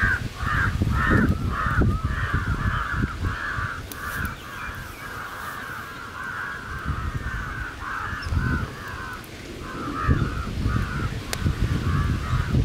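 A bird calling over and over in short, harsh notes, about two or three a second, with a brief pause about nine seconds in, over a low, uneven rumble.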